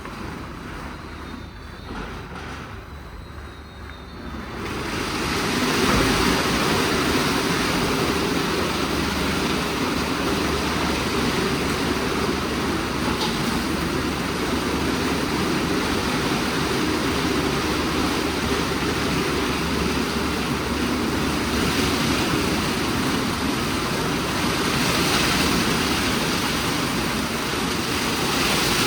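WashTec SoftCare² Pro gantry car wash at work: a loud, steady rushing noise comes on about four and a half seconds in and holds.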